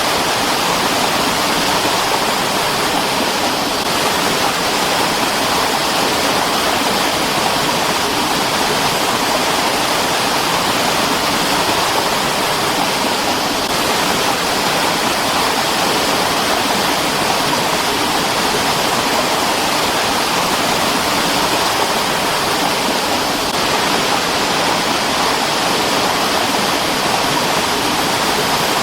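Mountain stream of fast water rushing and splashing over rocks, a steady, even rush with no breaks.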